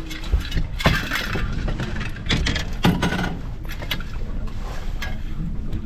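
A boat motor running under a steady rumble of wind noise, with scattered knocks and clinks of gear being handled in the boat.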